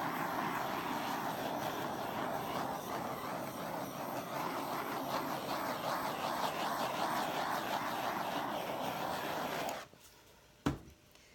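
Handheld torch flame hissing steadily as it is played over wet acrylic paint to pop air bubbles. It shuts off abruptly near the end, followed by a single click.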